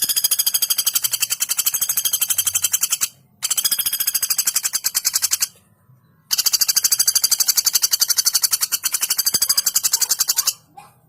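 A female common flameback woodpecker (pelatuk bawang) giving long, fast rattling call series, three runs of many rapid high notes with brief pauses between.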